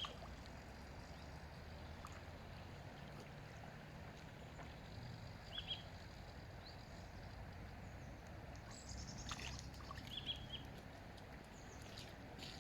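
Faint outdoor ambience: a steady low rumble with a short high bird chirp three times, about five seconds apart, and a few light clicks.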